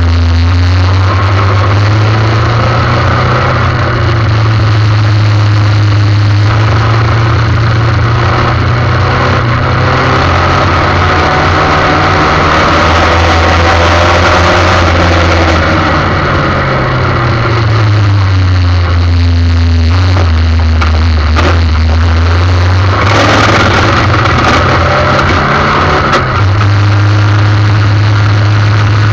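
Formula 1600 single-seater race car engine running hard at racing revs, its pitch climbing and falling as the driver accelerates, brakes and changes gear, with a deeper dip a little past the middle.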